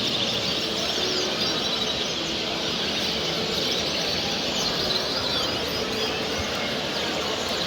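Dense, continuous chorus of many caged ornamental songbirds chirping and trilling at once, the calls overlapping without pause.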